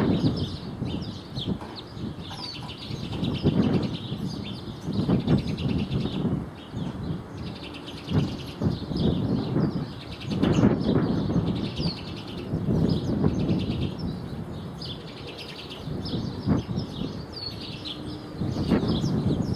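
Many small birds chirping with short, quick high calls throughout, over repeated low rumbling surges of noise every few seconds, which are louder than the birds.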